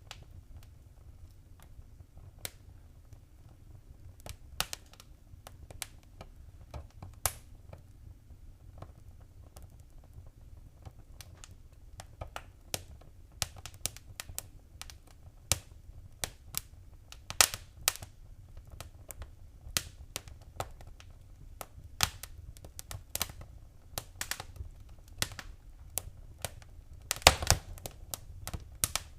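Fireplace fire crackling: irregular sharp pops and snaps over a low steady rumble. The pops come more often after about twelve seconds, with a quick cluster of them near the end.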